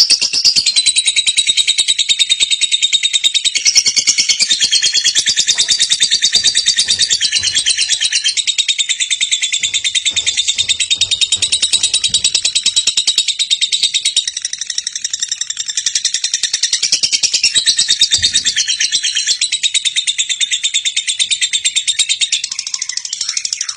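Lovebird chattering in a long, unbroken run of rapid, high-pitched chirps: the long 'ngekek' song.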